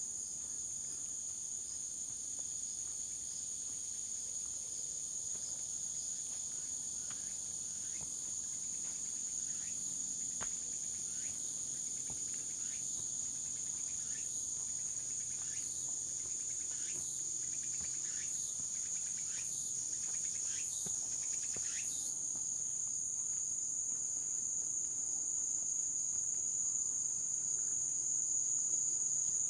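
Steady high-pitched chorus of insects, crickets by their sound, in the surrounding forest. Through the middle comes a run of about a dozen footsteps, a little over one a second.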